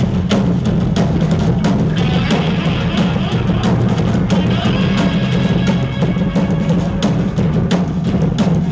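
Punk band playing live, loud: an instrumental stretch with fast, even drum-kit hits over a steady bass-heavy band sound and no vocals.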